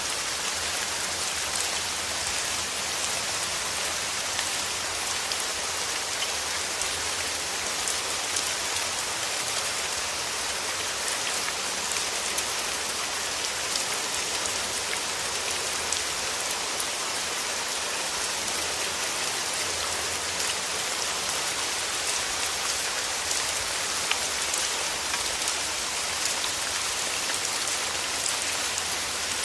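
Steady rain falling on a surface, an even hiss with many fine drop patters, unchanging throughout.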